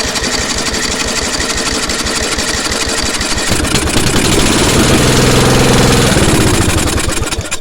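Briggs and Stratton 10 hp petrol engine running with the choke on, fed only by petrol poured into the carburettor. It speeds up about halfway through, then slows and cuts out near the end: it will not keep running on its own fuel supply, which the owner puts down to the carburettor.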